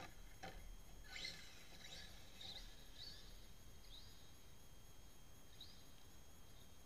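Near silence with faint, short bird chirps, several close together in the first three seconds and then only now and then.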